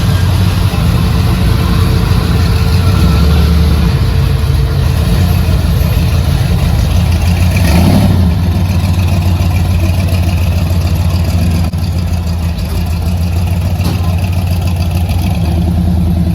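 Vehicle engines running steadily, with one revving up briefly about eight seconds in.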